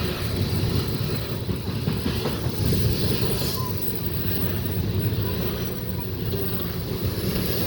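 Loaded coal train's freight cars rolling past below, a steady low rumble of steel wheels on rail.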